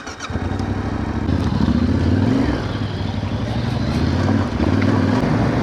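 Motorcycle engine running, coming in abruptly about a quarter of a second in and then running steadily and loud.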